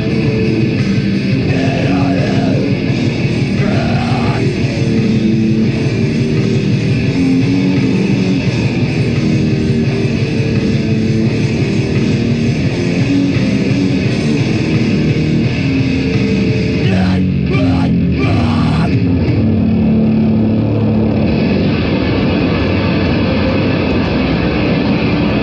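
Live heavy band playing loud, distorted guitar-driven heavy music as one steady, dense wall of sound.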